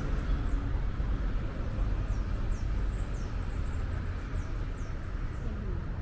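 Outdoor ambience: a steady low rumble with faint, high chirps that slide downward, repeating irregularly.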